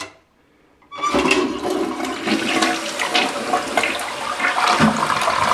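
Annwa one-piece dual-flush toilet flushing on its full (larger) flush: about a second in, water rushes suddenly into the bowl and keeps swirling loudly down the drain.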